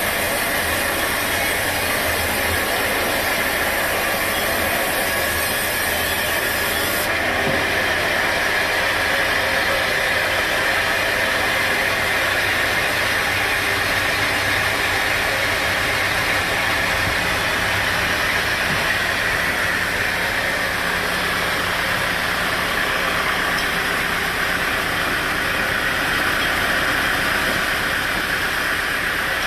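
Sawmill machinery running steadily: a dense, even mechanical noise.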